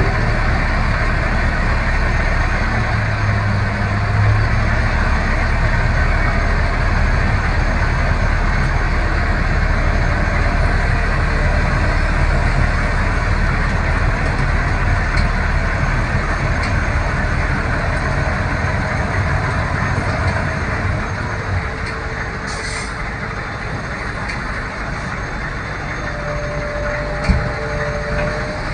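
Heavy diesel engine of a ten-wheel dump truck running steadily with a deep rumble, which drops off and gets quieter about two-thirds of the way through. A short knock near the end.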